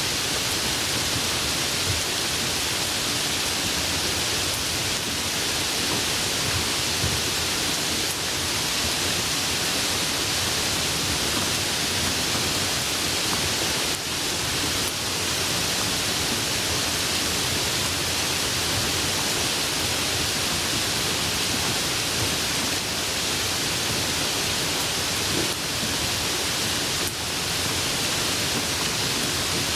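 Steady tropical rain falling, an even, dense hiss with no breaks.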